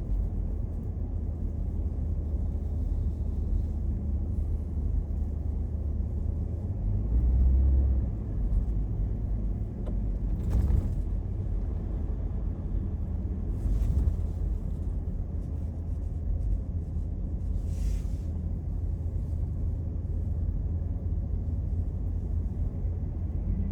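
Car driving on snowy city roads, heard from inside the car: a steady low rumble of road and engine noise. Three brief hisses cut across it, about ten, fourteen and eighteen seconds in.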